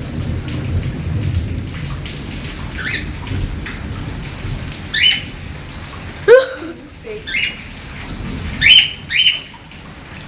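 Pet birds giving short, sharp rising chirps, about six of them, the loudest about six seconds in and two close together near the end, over a low rushing noise that fades during the first half.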